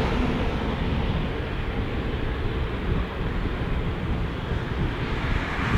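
Boeing 787 jet engines on approach to land, heard from a distance as a steady low rumble.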